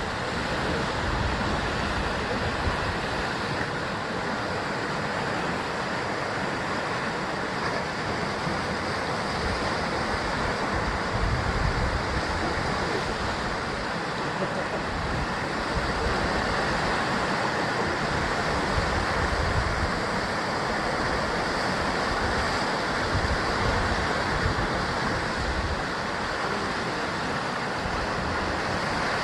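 Sea surf washing continuously against a rocky basalt shore, a steady rush that swells and eases slowly. Low rumbles of wind on the microphone come and go.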